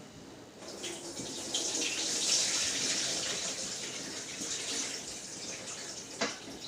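Water running from a kitchen tap into a sink over the chicken being washed. The flow comes on about half a second in, is strongest around two seconds, then eases a little. A short knock comes near the end.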